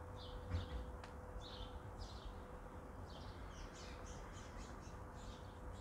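Small birds chirping, many short quick chirps one after another, over a faint steady hum.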